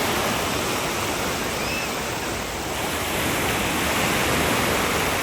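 Sea waves washing onto a beach: a steady rush of surf that swells a little about three seconds in.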